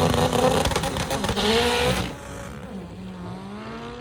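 A drag-racing car's engine at full throttle, its pitch climbing and dropping back with each gearshift. About two seconds in it falls away sharply, leaving a fainter engine note.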